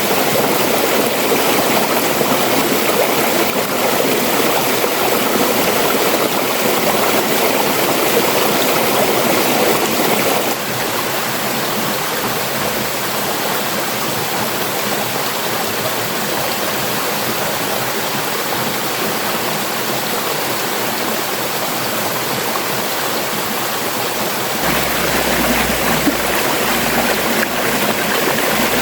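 Flowing stream water, a steady rushing. The sound changes abruptly about ten seconds in, turning a little quieter, and a low rumble joins it near the end.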